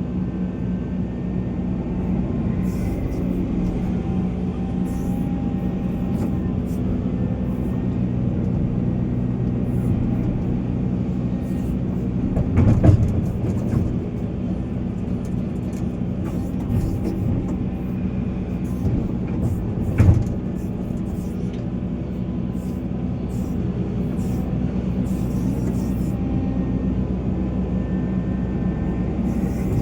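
Volvo EC480 excavator's diesel engine running steadily while it works. Two short, louder knocks stand out, one a little under halfway through and one about two-thirds through.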